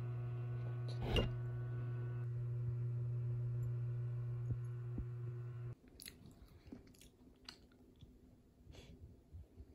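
A steady low hum with one rustling knock about a second in. The hum cuts off suddenly after about six seconds, leaving faint, scattered clicks of someone chewing.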